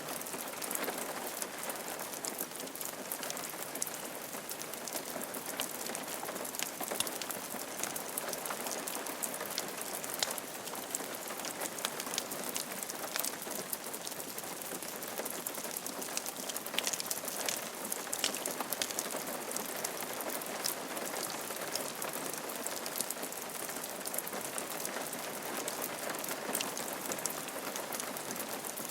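Steady rain falling on a roof: an even hiss with many individual drops ticking sharply.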